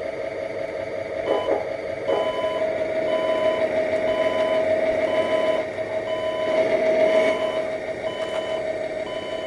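Sound module of a 3D-printed RC Tatra 815 model truck playing a simulated diesel engine through its small speaker, with a reversing beeper starting about a second in and repeating about once every 0.7 s. The engine sound swells for a moment around seven seconds in.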